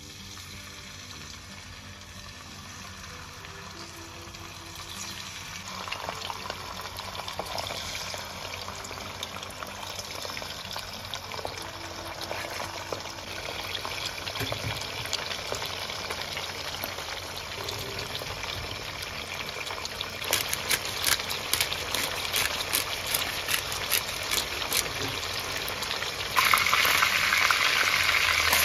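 Chicken wings frying in hot oil in a pan: a steady sizzle that builds as more wings go in. From about two-thirds of the way through, crackling and spitting pops join it, and near the end the frying jumps suddenly louder.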